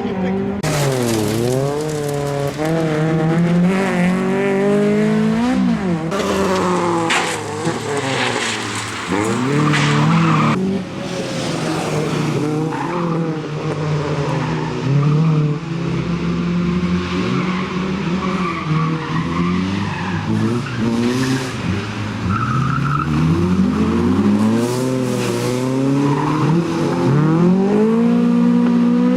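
Honda Civic rally car's four-cylinder engine driven hard, its pitch climbing and dropping again and again as it revs through the gears and lifts for corners, with bursts of tyre squeal.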